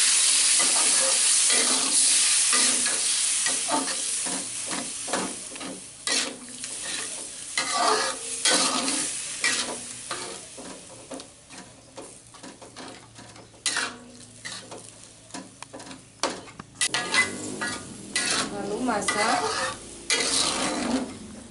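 Coconut milk sizzling in a wok of fried chili-tomato spice paste, added to cook the paste through. The hiss is loud at first and dies down over the first several seconds. A metal spatula then stirs and scrapes against the wok in quick strokes.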